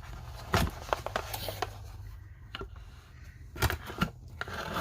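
Scattered clicks, knocks and scrapes of a package being handled and opened, with a faint low hum underneath.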